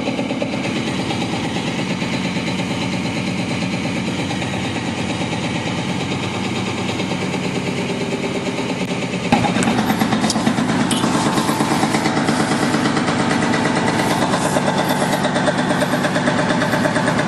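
Construction machinery engine running steadily with a regular throb. About nine seconds in it gets suddenly louder and a few clattering knocks come in over it.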